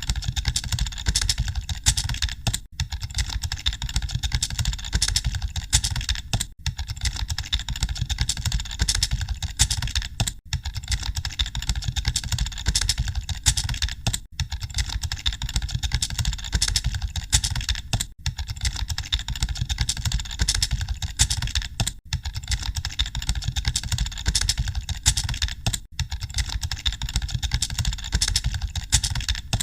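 Many computer keyboards being typed on at once, a dense, continuous clatter of keystrokes like an exam hall during a typing test. There is a low rumble underneath, and the clatter dips briefly about every four seconds.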